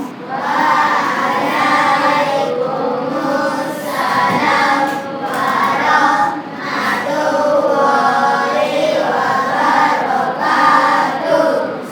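A group of children singing together in unison, many young voices held in long, continuous sung lines.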